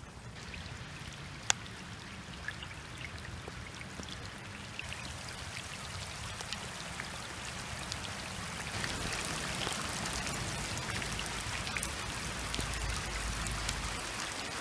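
Heavy rain with individual drops ticking, growing heavier about nine seconds in. One sharp click about a second and a half in is the loudest single sound.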